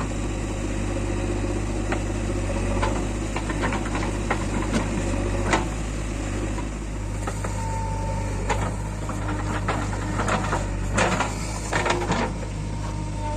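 Backhoe loader's diesel engine running steadily, with repeated sharp knocks and clatter through most of the stretch.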